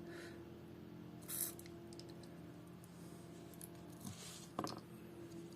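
A few faint scrapes and a sharp click from small tools and parts being handled on an opened smartwatch, over a steady low hum.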